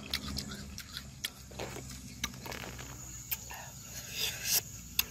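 Close-up mouth sounds of chewing crisp, juicy bilimbi fruit: irregular wet clicks and crunches, with a couple of louder noisy bursts about four seconds in.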